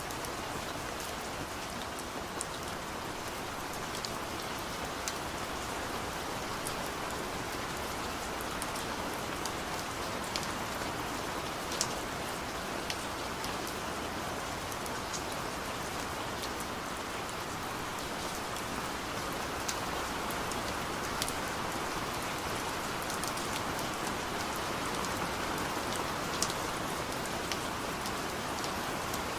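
Steady rain drumming on a car's roof and windows, heard from inside the cabin: an even hiss with frequent sharp ticks of single drops.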